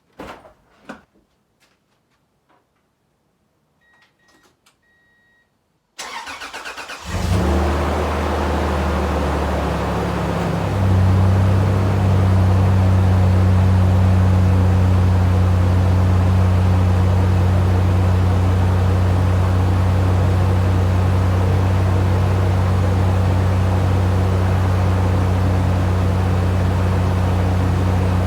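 Faint clicks and two short beeps, then at about six seconds a starter cranks the supercharged Toyota 3.4-litre V6 for about a second. It catches and settles into a steady cold-start fast idle, whose pitch steps once about four seconds later.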